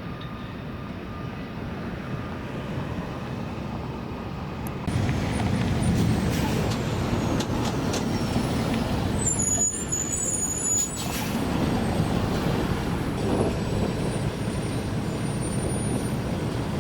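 Road traffic with a heavy vehicle such as a truck or bus, louder from about five seconds in, with a brief high squeal of brakes near the middle.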